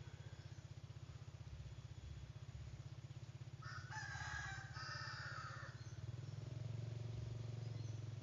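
A rooster crowing once, about four seconds in, over a steady low hum.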